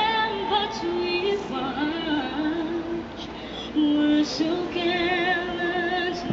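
A woman singing solo in slow, long-held notes with a wavering vibrato.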